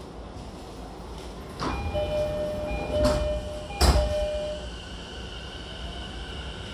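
Inside a Sotetsu 10000 series electric commuter car standing at a station. A steady tone-like chime sounds while the sliding doors shut, with several clunks, the loudest about four seconds in. Then a steady high whine from the car's Mitsubishi IGBT traction inverter sets in as the train starts off.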